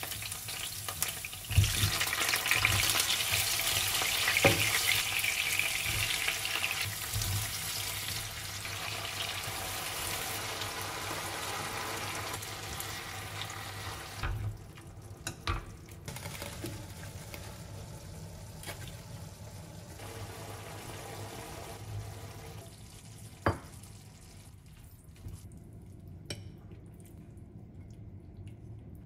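Food sizzling in hot oil in a pan. The sizzle starts suddenly, is loudest for the first several seconds and then slowly settles to a quieter sizzle, with a few sharp knocks along the way.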